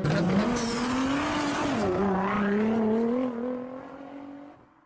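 Car engine running and revving, its note climbing, dropping about two seconds in, then climbing slowly again before fading out.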